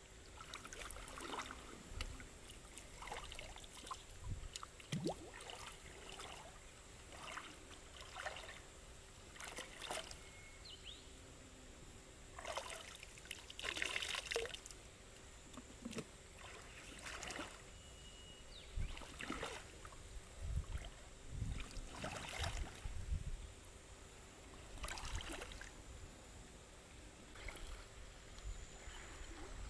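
Shallow water splashing and trickling in irregular bursts, as if stirred or scooped by hand, with a louder splash about halfway through.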